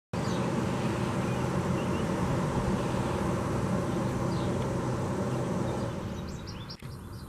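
Small birds chirping faintly in short high calls over a steady low rumble of noise, which eases about six seconds in, leaving the chirps clearer.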